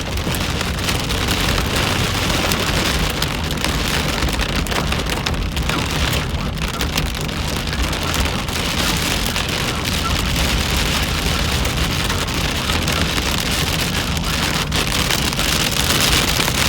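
Heavy rain mixed with hail pelting the car's roof and windshield, a dense steady patter with scattered sharper hits, heard from inside the cabin.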